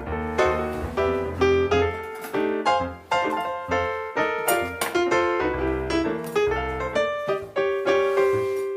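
Background piano music: notes struck in a steady rhythm over sustained bass notes.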